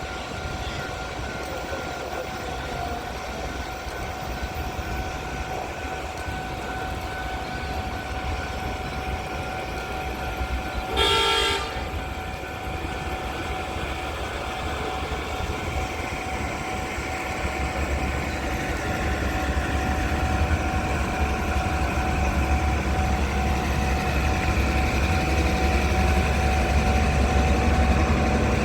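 Rail maintenance vehicle running during shunting, with one short horn toot about a third of the way in. Its engine rumble grows louder over the last third, as if it is working harder or drawing closer.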